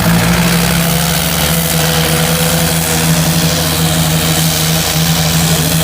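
Tractor diesel engine running steadily, a loud, even drone with a slight waver in pitch.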